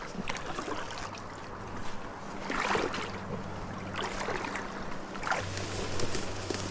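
Water sloshing and splashing in several bursts over a steady low motor hum, which gets louder about five seconds in.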